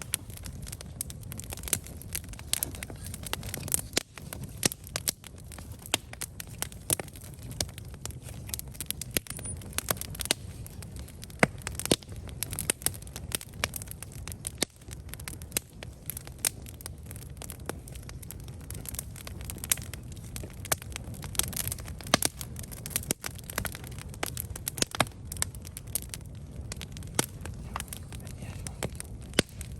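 Wood campfire burning, with frequent sharp irregular crackles and pops over a low steady rumble of the flames.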